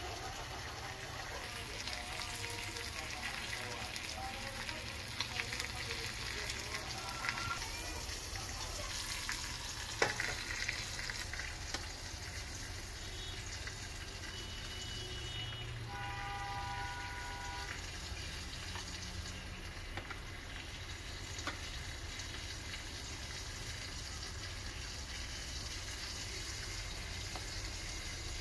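Breaded shrimp frying in hot olive oil: a steady sizzle with light crackling, and a single sharp tap about ten seconds in.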